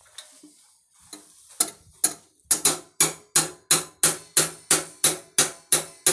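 A hammer driving a nail through the metal of a tin can to punch a hole. A few light taps come first, then a steady run of about a dozen sharp, ringing metal strikes, about three a second.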